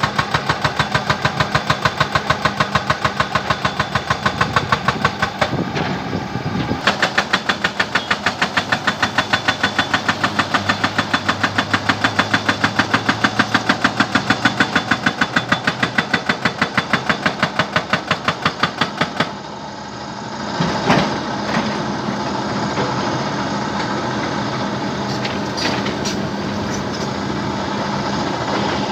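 Jackhammer hammering in rapid, even strokes that stop about two-thirds of the way through, leaving a machine engine running with a few scattered knocks.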